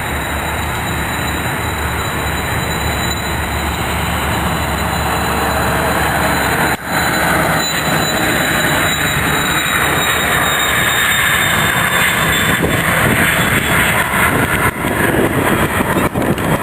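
Twin turbofan engines of a Cessna 560XL Citation Excel business jet at high power: a loud, steady jet noise with a high whine on top, the whine fading about two-thirds of the way through as the noise grows louder toward the end.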